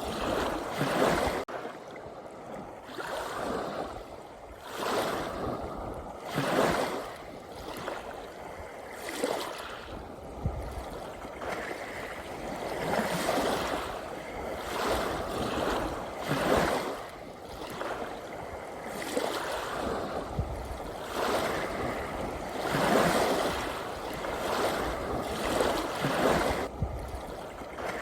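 Ocean waves breaking and washing on the shore, a rushing noise that swells and ebbs every couple of seconds, with a low rumble underneath.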